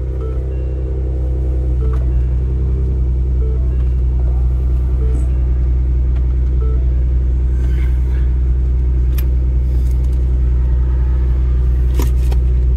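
Ford Explorer ST's 3.0-litre twin-turbo V6 idling steadily just after start-up, heard from inside the cabin.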